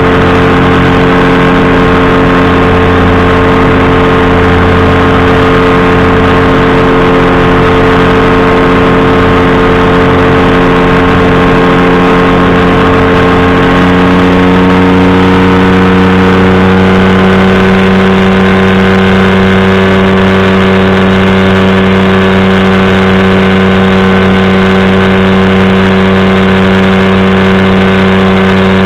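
Powered parachute's engine and pusher propeller running steadily at a loud, even drone, with a slight change in engine note about halfway through.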